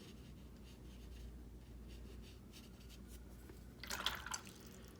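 Faint scratchy brushing of a wet watercolour brush working paint, with a short louder swish about four seconds in.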